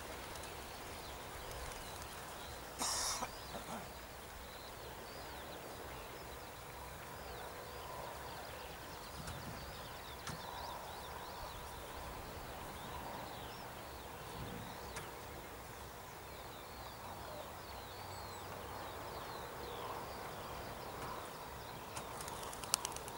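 Many small birds calling and chirping from the surroundings, a faint steady chorus of short high calls. About three seconds in there is a short, louder clatter, and a few sharp clicks come near the end.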